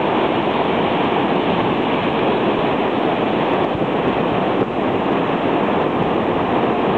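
Steady, unbroken noise of storm-driven surf washing ashore during a tidal surge.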